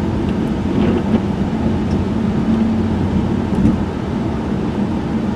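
1995 Chevrolet Monte Carlo cruising at about 55 to 60 mph, heard from inside the cabin with a window open: a steady engine hum under constant road and wind noise.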